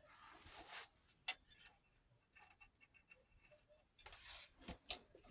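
Faint, scattered clicks and ticks from handling an 8mm film viewer and winding its film, with a couple of soft rustles near the start and around four seconds in.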